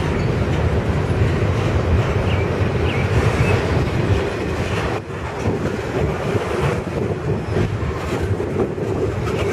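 Freight train of double-stack container well cars rolling past, a steady rumble of steel wheels on the rails that dips briefly about five seconds in.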